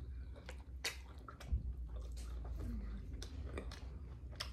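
A person chewing a mouthful of pizza with closed lips: scattered wet mouth clicks and smacks over a steady low hum.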